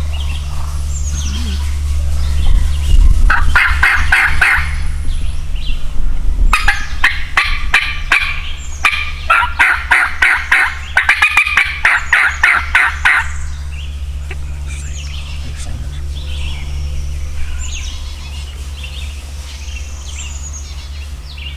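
Wild turkey jakes (young gobblers) gobbling: one gobble about two seconds in, then several overlapping gobbles in quick succession for about six seconds, loud enough to sound like grown birds. Small songbirds chirp faintly afterwards.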